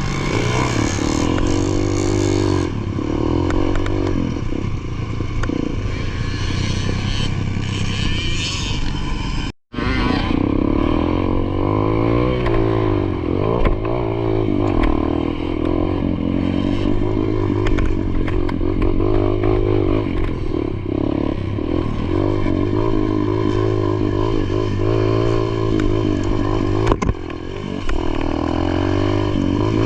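Motocross dirt bike engine revving up and falling back again and again as it is ridden around the track, with one sudden brief cut-out about ten seconds in.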